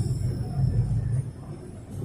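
Inside the carriage of a moving Melbourne Metro electric suburban train: a steady low rumble of the train running on the track.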